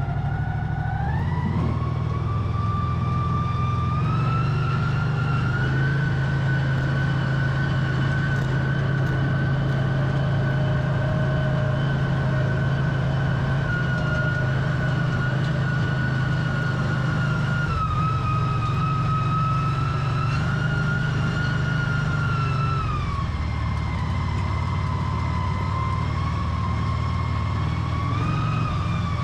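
The 570cc Vanguard engine of an American Landmaster L5 UTV runs under load while driving in four-wheel drive, with a steady hum and a high drivetrain whine. The whine rises in pitch over the first few seconds, holds, drops about three-quarters of the way through, and climbs again near the end.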